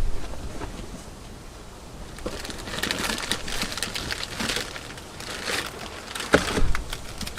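Crinkling and rustling of something being handled, a dense run of small irregular crackles, with a louder knock about six seconds in.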